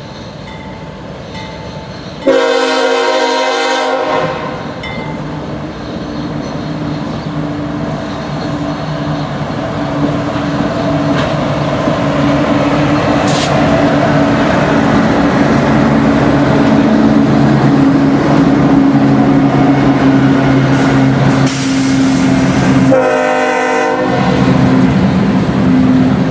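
A diesel freight locomotive approaching: its horn sounds for about two seconds near the start and again briefly near the end, while the engine rumble grows steadily louder.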